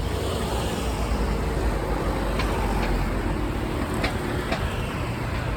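Steady low rumble of vehicles, with a few short sharp clicks about halfway through.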